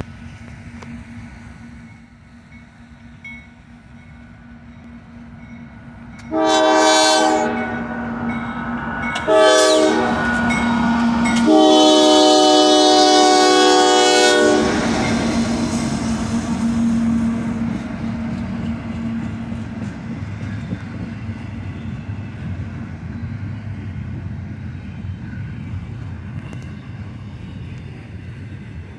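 Horn of a CSX GE AC4400CW locomotive sounding three blasts, long, short, then a longer one, starting about six seconds in, over the steady drone of its diesel engine. The locomotives then pass close by, and double-stack container cars follow with a rolling rumble and wheel clatter.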